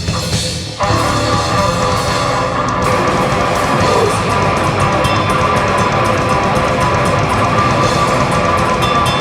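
Live heavy rock band playing an instrumental passage: distorted electric guitars over drum kit and bass. The full band comes in hard just under a second in.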